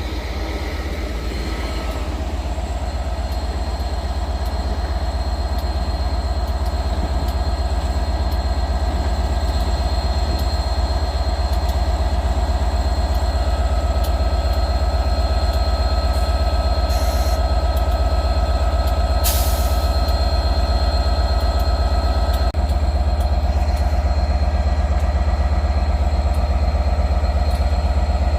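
A train running close by: a steady low drone with a few held tones, slowly growing louder.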